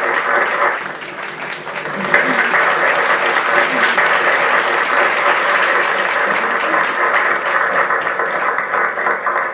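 Audience applauding, dipping briefly about a second in and then swelling again.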